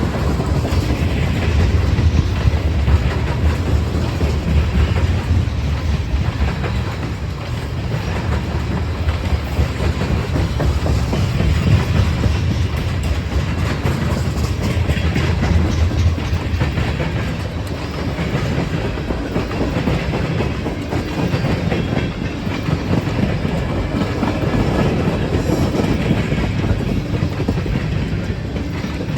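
Freight train cars rolling past: a steady low rumble with repeated wheel clicks over the rails.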